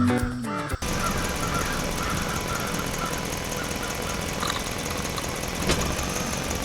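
An engine, of the kind dubbed in for the mini tractor, running steadily after music cuts off under a second in.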